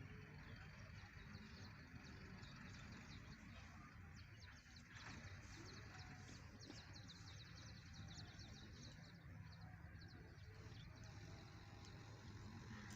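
Faint ambient outdoor sound: birds chirping in quick short calls, thickest in the middle stretch, over a low steady background hum.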